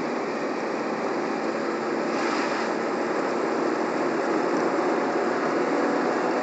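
Peugeot 107 engine pulling hard in third gear as the car gathers speed, heard from inside the cabin with road and wind noise, growing slowly louder.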